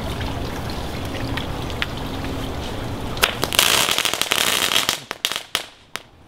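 Consumer ground fireworks going off: a steady hissing spray, then about three seconds in a louder rush of crackling, followed by a quick string of sharp pops that die away near the end.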